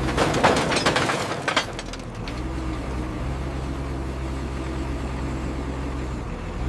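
Scrap metal clattering in a quick run of impacts for about the first two seconds, then a heavy machine's engine running steadily.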